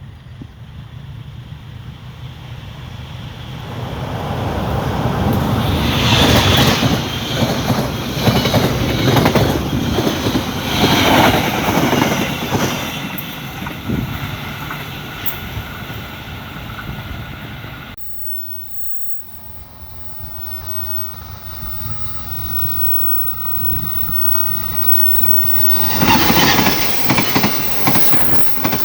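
A train passing close by, its wheels clattering over the rail joints, building up and staying loud through the middle. The sound drops off abruptly about two-thirds of the way through, then train noise builds again and is loud near the end.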